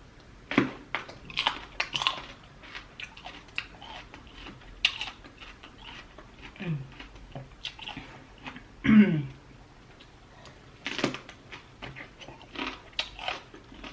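Close-miked eating sounds: a person chewing and biting seafood-boil food, with wet mouth smacks and clicks. There is a short vocal murmur about nine seconds in, the loudest moment.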